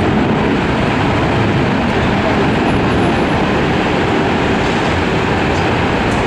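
Boeing 737-800's CFM56-7B jet engines running at taxi power: a steady, loud rushing roar with a heavy low rumble.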